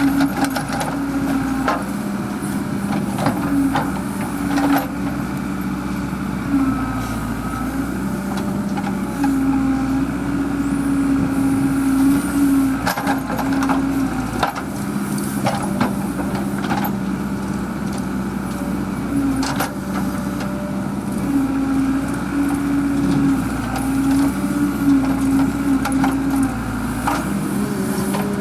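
Heavy diesel machine engine running under working load, its note switching back and forth between a higher and a lower steady pitch every few seconds, with scattered sharp knocks and cracks.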